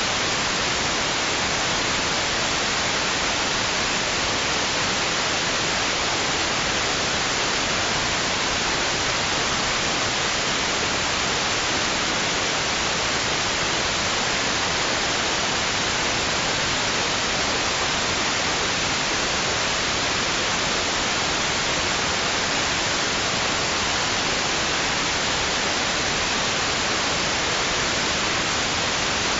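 Steady white noise: an even, hissy rush that never swells or changes, used as a sleep sound for babies.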